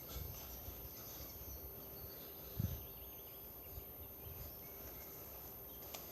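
Faint forest ambience with distant bird calls. A single low thump comes about two and a half seconds in.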